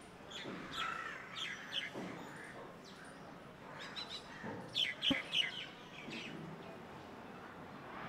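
Small birds chirping in short, sharp, irregular notes, coming in two clusters about a second in and about five seconds in. A single sharp click sounds just after five seconds.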